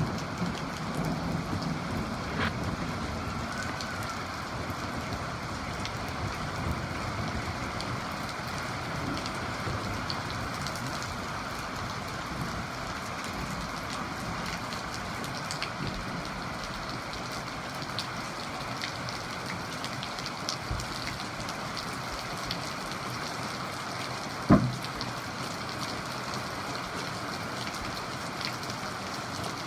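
Steady heavy rain falling, with scattered ticks of drops, and one sharp knock late on.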